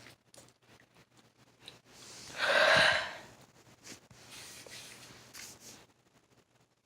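A single loud, breathy sound from a person's mouth or nose, about a second long, near the middle. Faint clicks and handling noises come before and after it.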